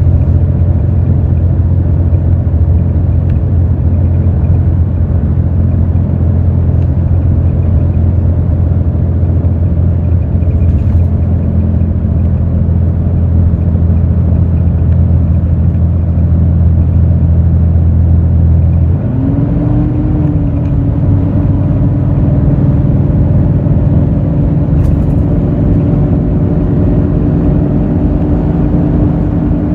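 Hino J08E-VD six-cylinder diesel engine of an intercity bus running under way, heard from inside the bus as a loud, steady low hum. About two-thirds of the way in the low hum falls away and a higher tone glides up and then holds steady as the engine note changes.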